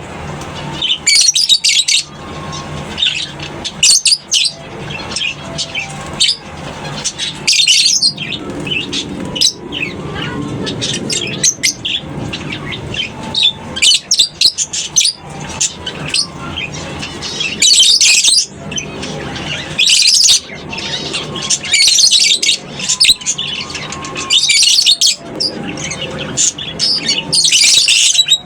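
A flock of lovebirds chattering, with many shrill, high chirps and squawks overlapping in bursts throughout.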